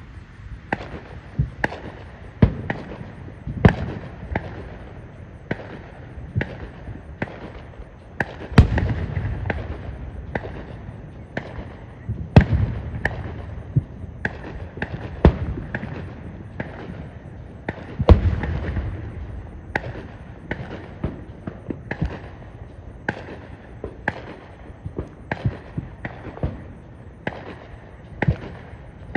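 Aerial fireworks shells bursting in a steady run of sharp bangs, about one or two a second, with three louder booms, about a third of the way in, near halfway and about two thirds in, each trailed by a rolling rumble.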